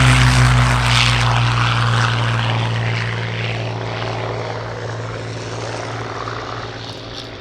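Rolls-Royce Merlin V12 piston engine of a WW2 warbird droning past with its propeller, growing steadily quieter as the aircraft flies away.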